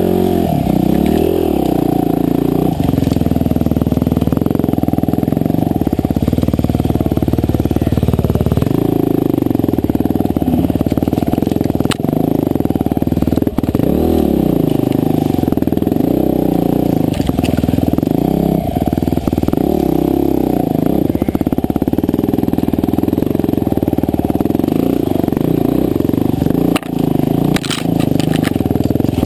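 Husqvarna TE511 single-cylinder four-stroke enduro bike running under load, its engine note rising and falling over and over as the throttle is worked along a trail, with a few sharp knocks along the way.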